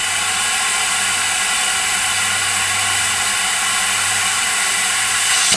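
Compressed air hissing steadily through a tire chuck into a flat car tire, which is taking air; the hiss stops suddenly near the end. A steady low hum runs underneath.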